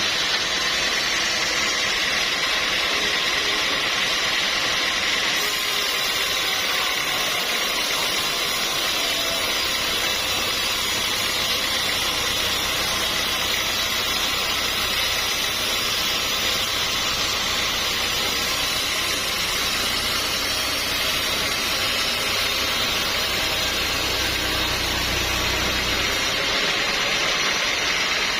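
Sawmill machinery running steadily, a continuous mechanical hiss and drone, with a low hum that comes in about ten seconds in and drops out a couple of seconds before the end.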